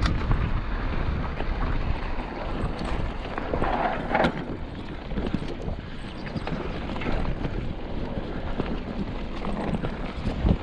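Wind buffeting the microphone of a moving rider, over a steady low rumble with scattered knocks and rattles from riding a rough track.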